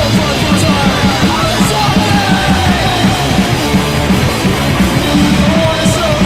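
A punk rock band playing loud and distorted, with guitar, bass and drums driving a steady beat, on a rough rehearsal recording.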